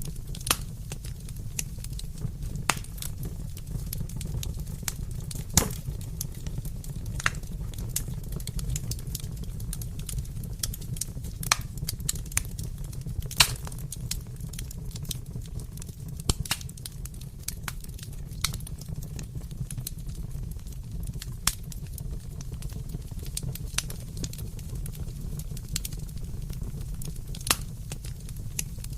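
Wood fire burning in a fireplace: a steady low rumble of the flames with irregular crackles and sharper pops of the burning wood, a handful of them louder than the rest.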